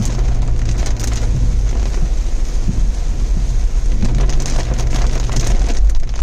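Heavy rain pattering on a moving car, many fine drop ticks over a strong steady low rumble of the car on the road.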